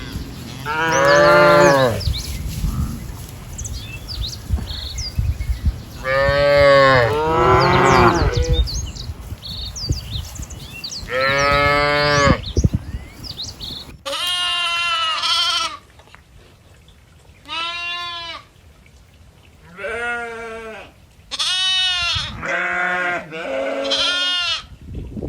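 Farm livestock calling: three long, drawn-out calls spaced a few seconds apart, then, after an abrupt change of background about halfway, a run of short, quavering goat bleats.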